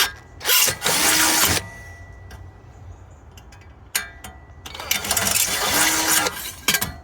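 Cordless drill with a 5mm bit drilling into a steel raised-bed panel, in two runs: a short one about half a second in and a longer one of about two seconds in the second half.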